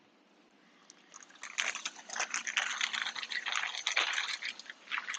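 Small metal sockets and adapters clinking and rattling against each other as they are handled and sorted, starting about a second and a half in.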